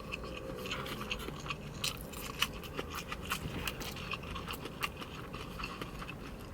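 A person chewing a mouthful of chicken biryani close to the microphone, with many small irregular mouth clicks and smacks.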